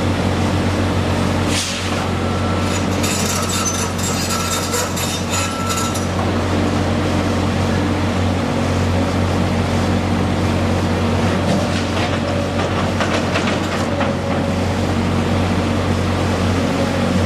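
A heavy engine running steadily with a low hum, with two stretches of clattering, the first from about two to six seconds in and the second from about eleven to fourteen seconds in.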